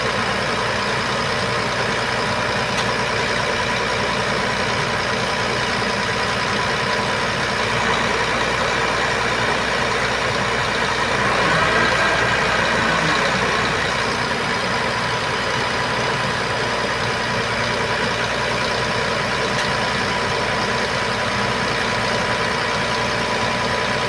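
Heavy diesel truck engine running steadily, a little louder for a couple of seconds about halfway through.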